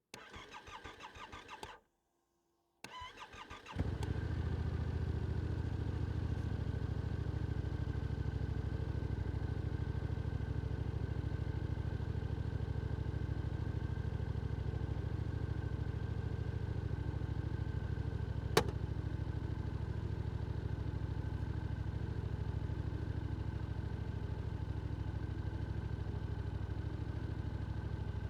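Yamaha R7 motorcycle with an Akrapovic exhaust being started: the starter cranks for about two seconds, stops, cranks again, and the engine catches about four seconds in, then runs steadily at idle. A single sharp click sounds about two-thirds of the way through.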